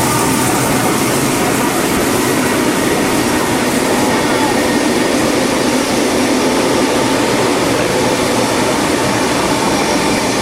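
Steady, loud rushing and rumbling of a steam-hauled passenger train running along the line, heard from the carriage coupled right behind the locomotive.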